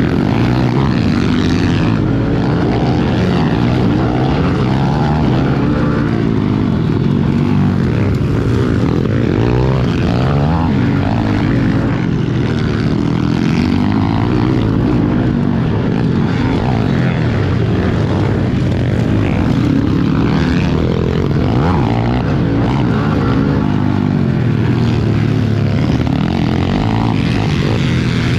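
Small single-cylinder pit bike engine revving hard and continuously, its pitch rising and falling every second or two as the rider works the throttle and gears around the track.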